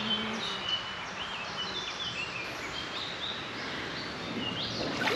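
Several songbirds singing in short chirps and slurred phrases over a steady background hiss.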